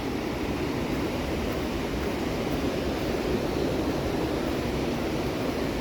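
Steady rushing of a mountain river, an even roar of water with no breaks.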